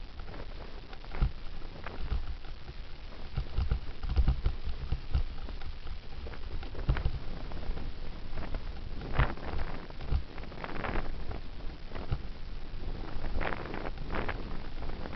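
Wind rumbling on a helmet camera's microphone as a bicycle coasts downhill, with irregular rattles and knocks from the ride over the road.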